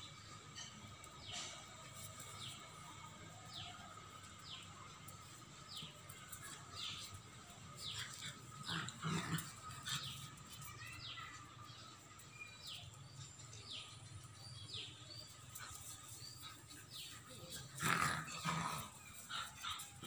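Dogs playing, growling and giving short yelps, with louder bouts about nine seconds in and near the end, over a run of short high chirps about once a second.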